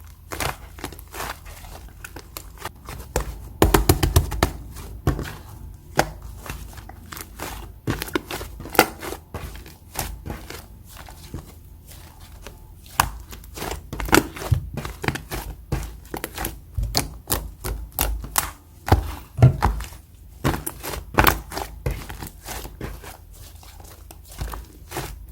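Sticky clay slime being squeezed, poked and stretched by hand, making a run of irregular small clicks, pops and soft squelches.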